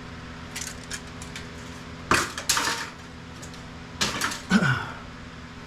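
Clatter of metal and plastic printer parts being handled and set down: a few light clicks, then sharp clanks about two seconds in and again about four seconds in.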